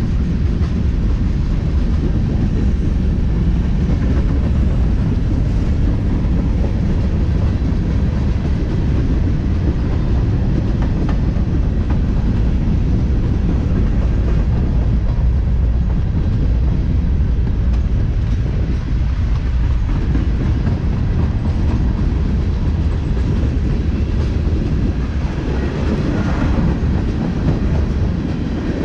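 A train rolling past close by: a steady, loud rumble of wheels on the rails.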